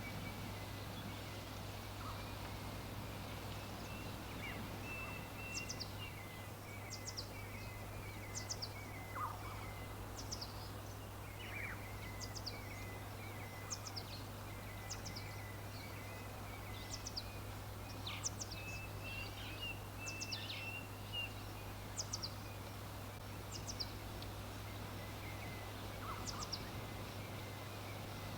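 Songbirds chirping: short, high chirps that drop quickly in pitch, about one a second, over a softer continuous chattering trill, with a steady low hum underneath.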